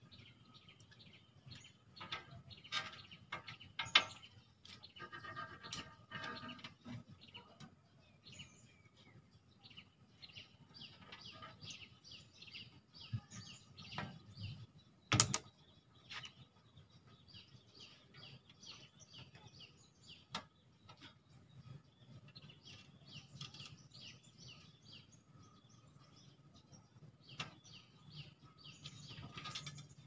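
Small birds chirping over and over, with a few sharp knocks and clicks from a glass window pane being handled and refitted in its frame; the loudest knock comes about halfway through.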